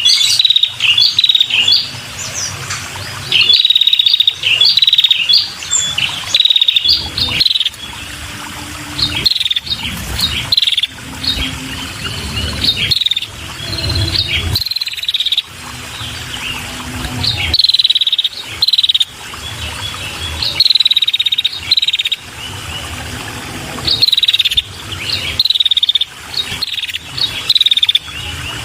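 Female red-headed prenjak calling: short, high, sharp chirping phrases repeated every second or two, gacor (singing constantly).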